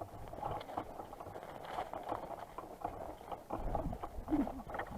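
Footsteps and rustling on outdoor ground, in uneven short strokes, as a player moves on foot.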